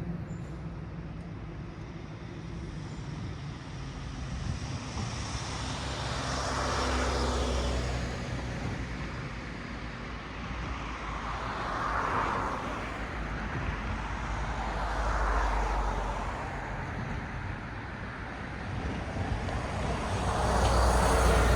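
Cars passing one after another on a road, their tyre and engine noise swelling and fading about four times, the last and loudest near the end, over a steady low traffic rumble.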